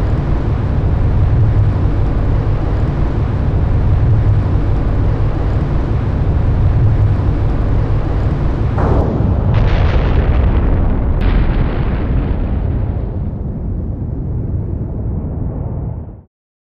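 Explosion sound effect: a heavy, continuous low rumble with a hiss above it. About nine seconds in there is a falling sweep, with two sharp cracks around it. It fades from about thirteen seconds and cuts off abruptly near the end.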